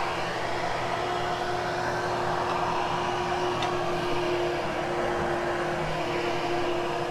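Hoover Hushtone upright vacuum cleaner running steadily while grooming a carpet, with an even motor hum over a steady rush of air.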